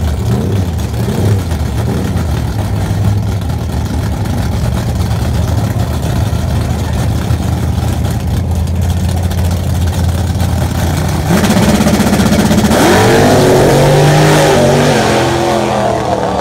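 A 1970s Chevrolet Nova drag car's engine idles steadily at the starting line. About eleven seconds in it launches at full throttle and gets louder, its revs climbing, dropping back and climbing again as it shifts gears while it pulls away down the strip.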